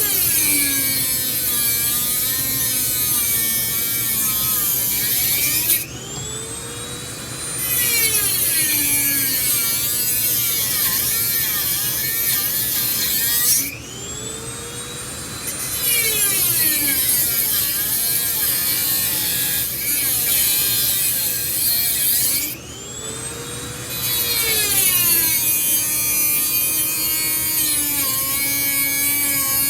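High-speed rotary tool with a cutting bit running against metal, a loud whine whose pitch sags and recovers as it is pressed into the work. It eases off briefly three times, about 6, 14 and 23 seconds in, then picks back up.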